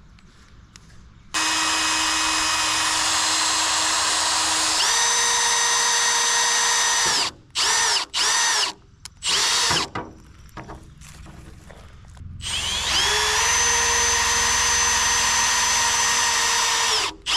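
Handheld electric power tool worked in trigger pulls. Its motor starts with a steady whine, spins up to a higher pitch and runs a few seconds, then stops. It gives several short bursts, then spins up again and runs about five seconds before cutting off near the end.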